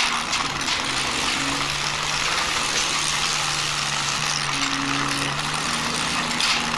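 Plastic wheels of a toy backhoe rolling and rumbling as it is pushed by hand across a hard floor, with a few small clicks. Soft background music with held notes plays under it.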